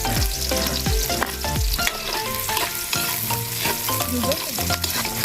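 Garlic, onion and freshly added ginger sizzling in hot oil in a pan while being stirred, with repeated knocks of the stirring utensil against the pan.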